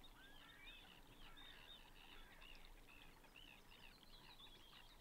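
Faint birdsong from several birds: a steady run of short, arching chirps, with one rising whistle just after the start.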